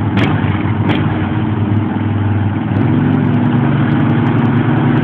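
Tractor engines running steadily, with two sharp clicks in the first second; about three seconds in the engine note changes and gets a little louder.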